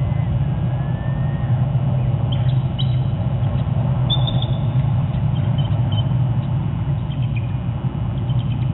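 Small high bird chirps, a few scattered calls a third of the way in and more near the end, over a steady low rumble.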